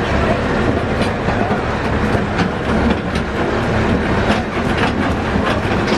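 Farm tractor towing open passenger wagons: a steady low engine rumble, with the wagons rattling and clacking every second or so.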